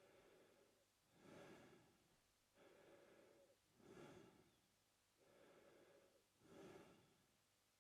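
A man breathing slowly and steadily in and out through his mouth, about three full breaths, each in-breath and out-breath plainly separated by short pauses.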